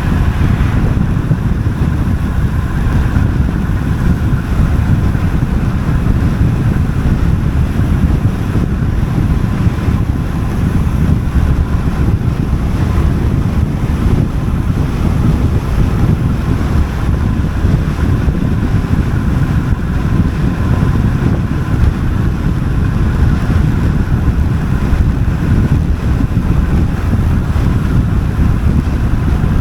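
Steady wind buffeting the camera microphone during a fast road-bike descent.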